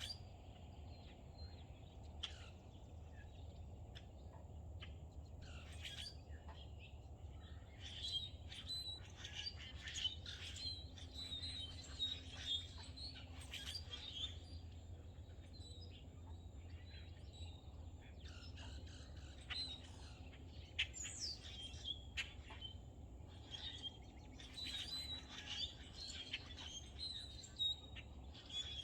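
Wild birds chirping and calling, many short overlapping chirps and trills, busier from about eight seconds in, over a steady low hum.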